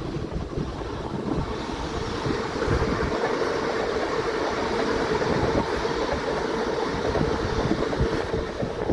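Electric multiple-unit commuter train running past on the adjacent line: a broad wheel-on-rail rumble that builds about two seconds in, carrying a steady hum, until the train has gone by near the end.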